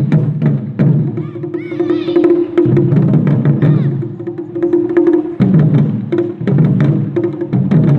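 Japanese taiko drums played by a group of children: fast, steady rhythmic strokes with sharp, clicking hits over a deep ringing drum tone.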